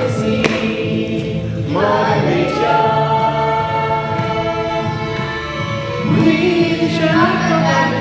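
Group of young voices singing together as a choir, with several long held notes.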